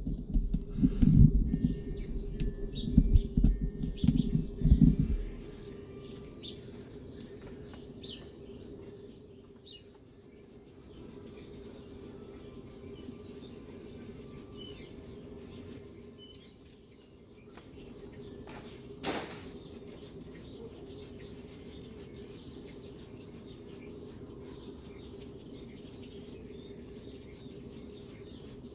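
Handling knocks and rumble on a phone's microphone for about five seconds as the phone is set down on a stand, then a steady low hum with small birds chirping, more often near the end. A single sharp click comes about two-thirds of the way through.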